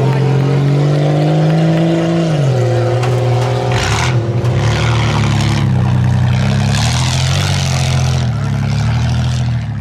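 Off-road race truck's engine revving hard on a tuff truck course, its pitch climbing and then dropping off sharply about two seconds in, then rising and falling in steps. Bursts of hiss come through about four seconds in and again around seven to eight seconds.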